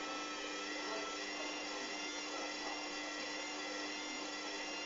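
Hoover washing machine motor running at a steady high speed, a constant whine with no change in pitch, typical of the drum spinning.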